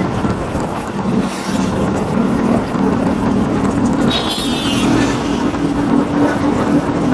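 Motorcycle engine running steadily at road speed, with wind rushing over the microphone. A brief high-pitched wavering sound comes about four seconds in.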